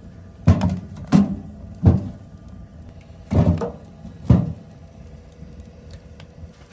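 Five heavy, dull thumps, unevenly spaced over about four seconds, then quieter.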